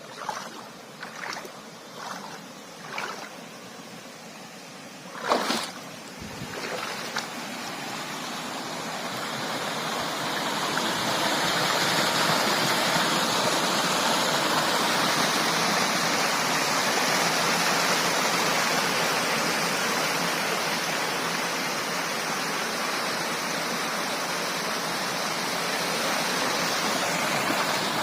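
Waterfall's rushing water, swelling over several seconds and then holding steady and loud. In the first few seconds, several short separate sounds about a second apart come through over the fainter water.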